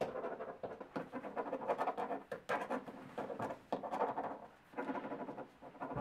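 Pen scratching quickly across paper on a desk, in runs of about a second with short pauses between.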